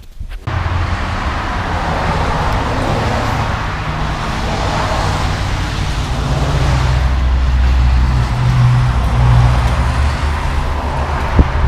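Car driving: steady road and tyre noise over a low engine hum, starting abruptly about half a second in.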